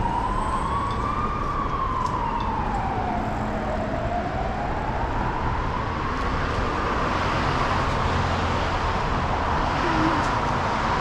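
Emergency vehicle siren wailing, its pitch slowly rising and falling twice and then levelling off near the end, over the steady hum of city traffic.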